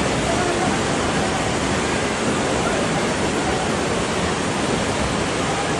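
Fast-flowing flood water rushing, a steady unbroken noise at a constant level.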